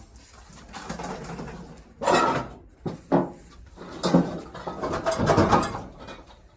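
Scrap metal being handled: several scrapes and clatters, one at about two seconds in, another at three and four seconds, and a longer scraping run near the end.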